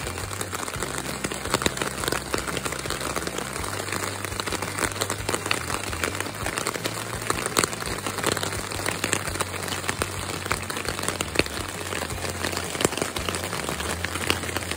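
Rain pattering steadily on a tent, heard from inside: a dense, even patter of many small drops on the fabric.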